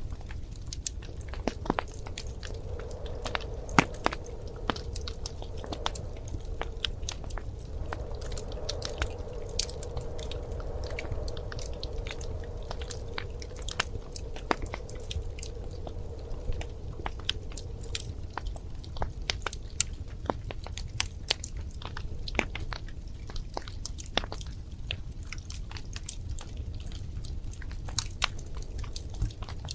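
Wood fire in a fireplace crackling: irregular sharp pops and snaps over a low steady rumble, with a faint hiss through the first half.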